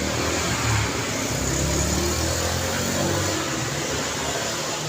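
Road traffic on a busy street: a passing vehicle's engine and tyres rise over a steady traffic hum, loudest about two seconds in, then fade.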